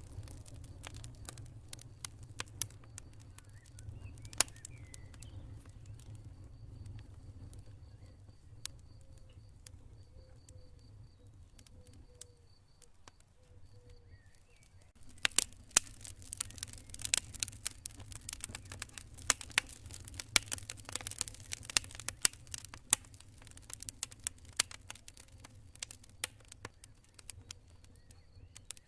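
Campfire burning, with sharp irregular crackles and pops from the burning wood over a low rumble of the flames. The crackling is sparse at first and becomes much busier and louder about halfway through.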